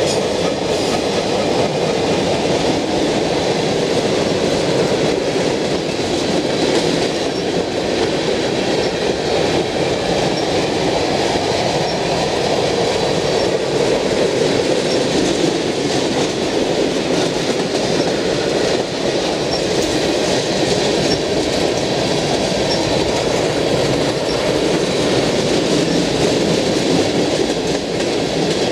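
Freight train's tank cars rolling past: a loud, steady rumble of steel wheels on rail, with a faint high ringing running under it.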